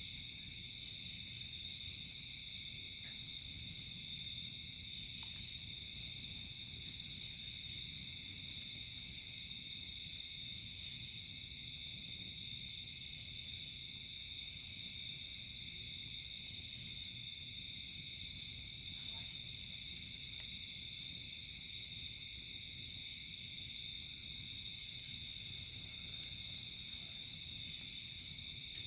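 Chorus of crickets trilling steadily, with a second insect calling in high rasping bursts about every six seconds.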